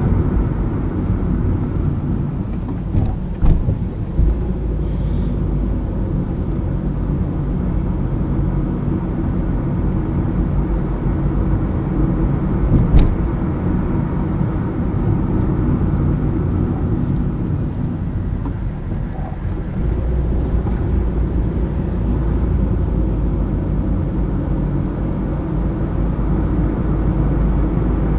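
A car driving along a highway: steady low road and engine noise, with a few brief knocks a few seconds in and a sharp click about halfway through.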